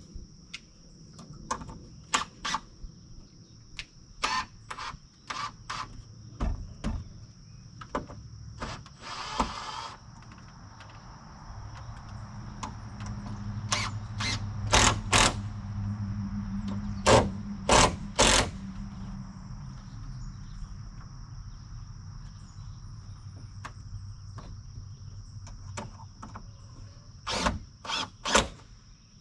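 Hammer blows driving nails while 2x6 rafters are put up, coming in quick clusters of sharp knocks, over a steady high chirring of crickets. A short noisy burst comes about nine seconds in, and a low hum swells and fades through the middle.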